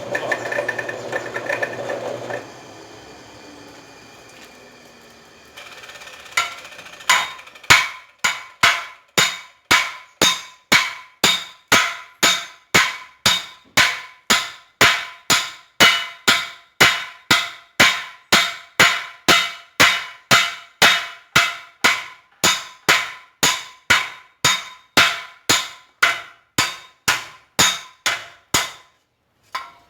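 Hammer blows on a red-hot chainsaw bar on an anvil, a steady run of about two ringing strikes a second, forging the thick steel thinner for a knife blade. Before the hammering starts, a steady machine hum cuts off about two and a half seconds in.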